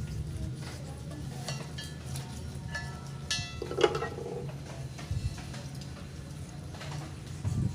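Metal objects handled with light clinks and scraping, and a sharp ringing metallic clink about halfway through, over a steady low hum.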